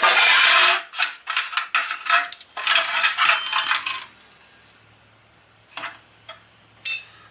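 Metal hand tools and parts clattering and rattling as they are handled, for about four seconds, then a few single light clicks near the end over a faint low hum.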